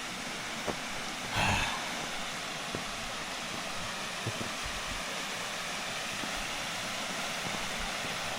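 Steady rushing of a rocky creek with small waterfalls. A short louder rustle comes about a second and a half in, and a few light clicks follow.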